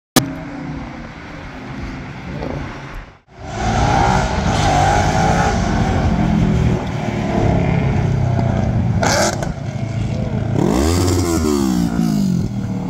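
Supercar engines revving loudly, cutting out briefly about three seconds in. A sharp crack comes about nine seconds in, and near the end one rev rises and falls in pitch.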